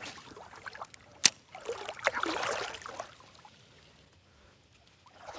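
Water splashing and sloshing in a shallow creek for a second or so, with one sharp click shortly before.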